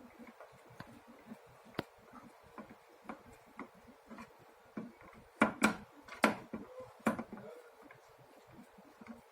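Light clicks and taps of plastic parts being handled as a facial steamer's cover is fitted and screwed on, with a few louder knocks a little past the middle.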